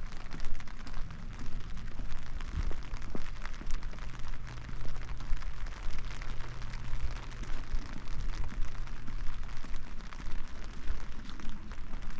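Steady rain, with a dense patter of close drops.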